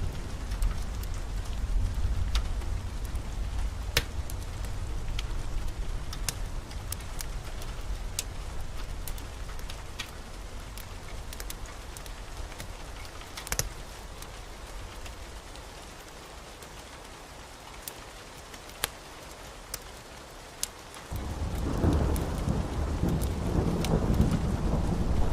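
Steady rain with scattered sharp ticks, under a deep rumble of thunder that fades away. About 21 seconds in, a new, louder roll of thunder begins.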